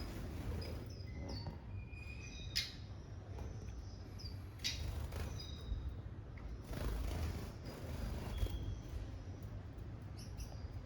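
Small aviary finches chirping: scattered short, high calls and brief whistled notes, with two sharper, louder calls about two and a half and four and a half seconds in, over a low steady rumble.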